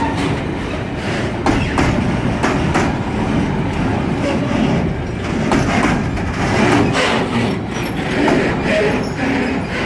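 The last covered freight wagons of a slow freight train rolling past, the wheels rumbling with irregular clicks and clacks over the rail joints.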